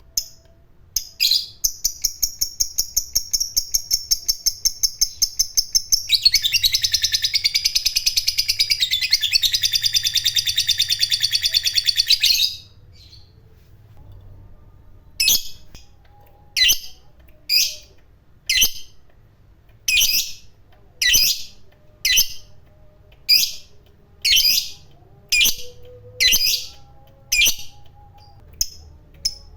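Lovebird giving its long chattering trill ('ngekek panjang'), a fast run of high repeated notes that grows louder and fuller about six seconds in and cuts off abruptly about twelve seconds in. After a short pause come single sharp chirps, about one a second.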